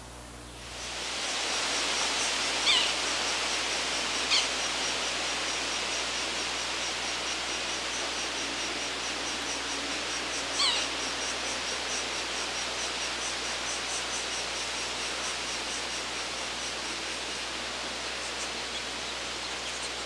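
Outdoor woodland ambience: a steady hiss, with a quick, even series of thin, high bird peeps and three short downward-sliding bird calls, a few seconds in and near the middle.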